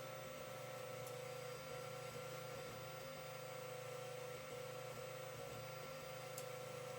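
Creality CR-10 3D printer running mid-print: a steady whine over a low hum.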